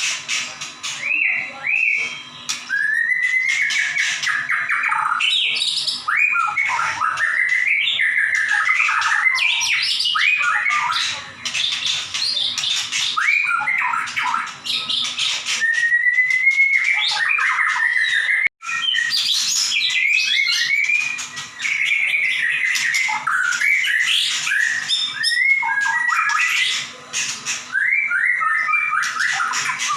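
White-rumped shama (murai batu) singing non-stop in full, rapid song: varied whistled phrases and glides mixed with sharp, high 'shooting' notes. A bird in this state is described as gacor, in top singing form.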